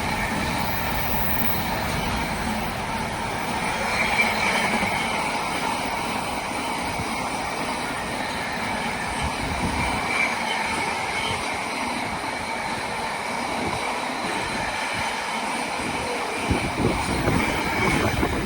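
Intermodal freight train passing: a long rake of container wagons rolling by with a steady rumble and wheel-on-rail noise, a thin high squeal running over it. A louder stretch of wheel clatter comes near the end.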